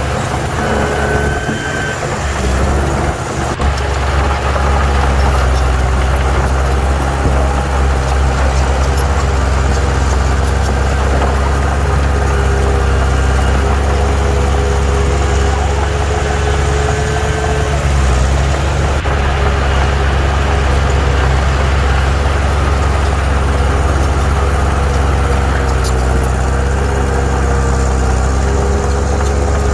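Heavy diesel engine of earthmoving machinery running steadily with a deep, constant drone and a faint higher whine that wavers in pitch.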